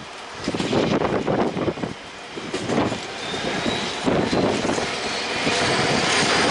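A loaded freight train of tarmac wagons hauled by Class 66 diesel 66784 rolling past. The wheels clatter irregularly over the rail joints, with a faint high wheel squeal from about three seconds in. The sound cuts off suddenly.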